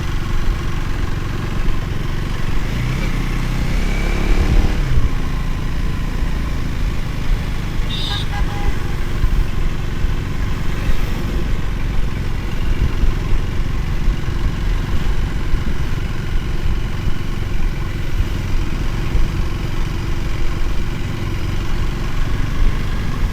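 Motorcycle engine running under way with a steady low rumble. An engine note rises and falls about three to five seconds in, and a brief high beep sounds about eight seconds in.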